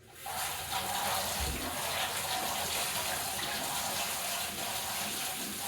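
Water tap turned on at the start and running steadily into a sink while fingers are rinsed under it.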